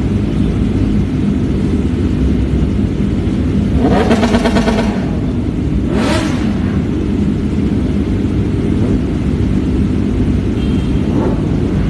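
Kawasaki ZX-25R's 250cc inline-four engine idling, blipped twice, briefly about four seconds in and again about six seconds in.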